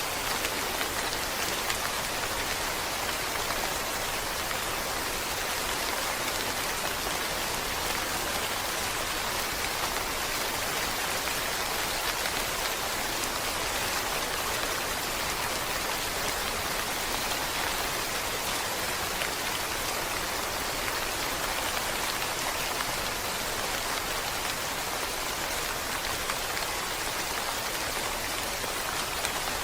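Steady rain falling on a surface, an even hiss of many small drops with no change in intensity.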